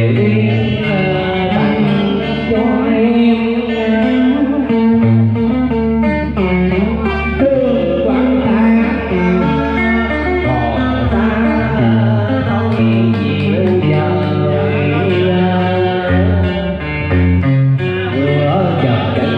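Vietnamese cải lương music: a plucked guitar melody over sustained bass notes.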